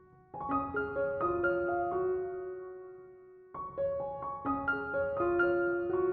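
Background piano music: gentle phrases of single notes that ring and fade, the first starting just after the opening and the next at about three and a half seconds.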